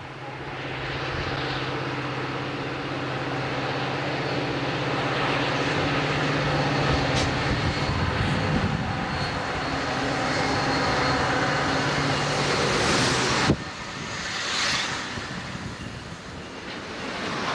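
Amtrak diesel locomotive approaching, its engine a steady drone that grows louder. About thirteen seconds in, the sound breaks off abruptly, and passenger cars can be heard rolling past close by on the rails.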